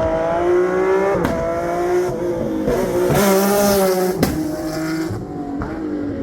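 Rally car engine at full throttle on a stage, revs climbing and dropping sharply at upshifts about a second in and again about four seconds in.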